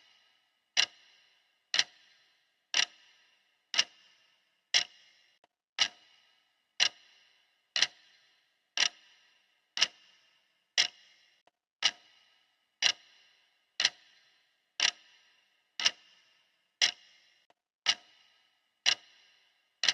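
Clock ticking steadily, one sharp tick a second, each with a short ringing decay.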